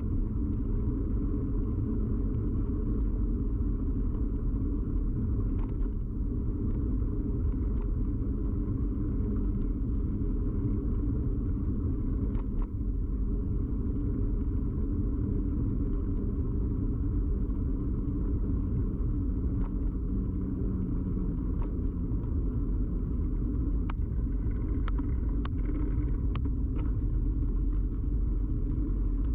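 Ride noise of a bicycle picked up through a camera fixed to the bike: a steady low rumble from the tyres and frame vibration, with scattered clicks and rattles that come more often near the end.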